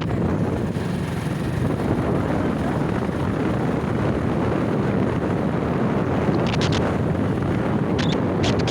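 Water pouring over a dam, a steady, deep rushing noise, with a few faint clicks in the second half.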